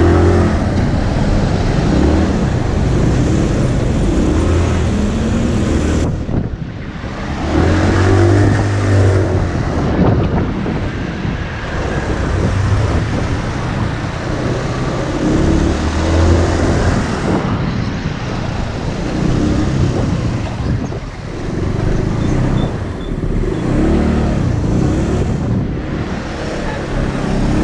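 Motorcycle engine running under way, its revs rising and falling again and again, with a brief drop in engine sound about six seconds in, over a steady rush of wind and road noise.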